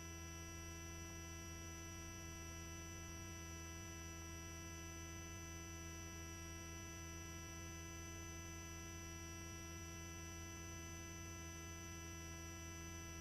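Steady electrical hum on a helicopter's headset intercom, several fixed tones at once, while the voice-activated microphones are closed.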